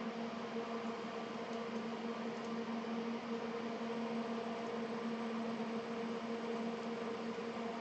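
A steady electric hum with an even hiss, as of a small fan or motor in bench equipment running constantly. It is unchanged throughout.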